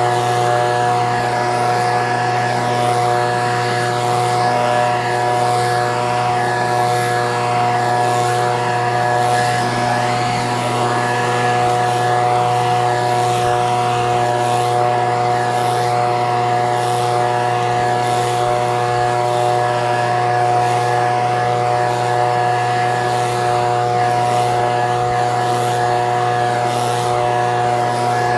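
Echo PB-2620 handheld leaf blower's small two-stroke engine running at a steady, unchanging speed.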